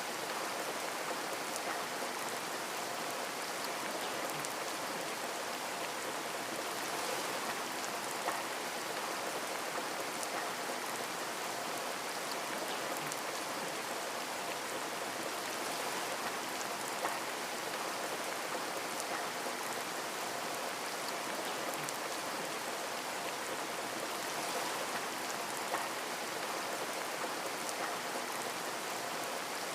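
Steady rain falling, with scattered drops tapping through a continuous hiss.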